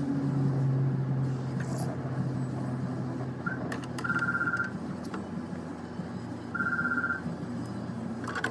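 Two short trilling electronic beeps, like a phone ringer, about two and a half seconds apart, over a steady low hum and hiss.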